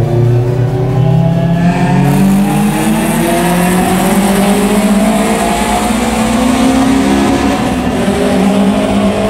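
Car engine accelerating, its pitch climbing slowly and steadily, in a road tunnel. Road and wind hiss comes in about two seconds in.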